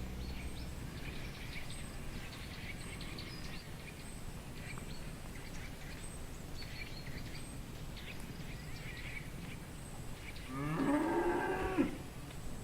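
A cow mooing once, a single drawn-out moo near the end that rises and then falls in pitch, over a low background noise with scattered faint high chirps.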